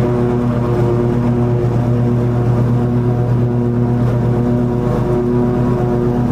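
Toro TimeCutter 50-inch zero-turn mower running steadily while cutting long grass: a constant engine hum with a few higher tones that fade in and out.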